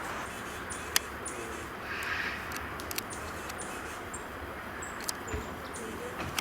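Small songbirds giving many short, very high, thin call notes, some with a quick downward flick, over a steady background hiss. A harsher call comes about two seconds in, and a few sharp clicks are scattered through.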